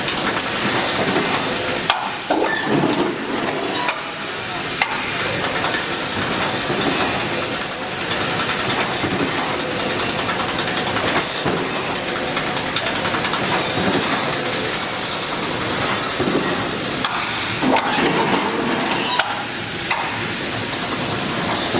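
Razor wire mesh welding machine running: steady mechanical clatter with frequent sharp clicks and knocks.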